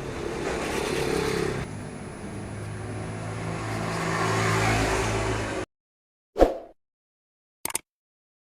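An engine runs steadily and grows louder over the first few seconds, then the sound cuts off suddenly. A single thump follows, then a brief click.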